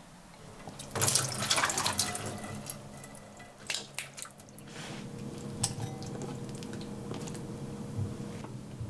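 Water running from a kitchen tap into a sink for a couple of seconds, with splashing and clinks, then scattered drips and knocks over a steady low hum.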